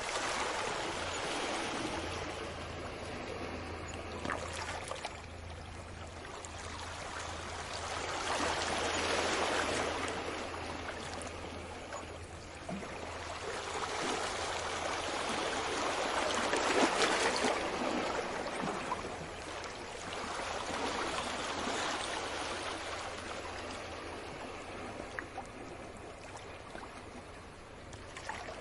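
Sea waves washing in and drawing back, a rushing wash that swells and fades every several seconds, with a steady low hum underneath.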